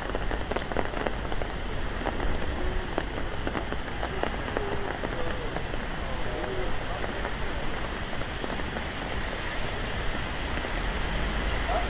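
Steady rain falling, a dense patter of drops with many small ticks.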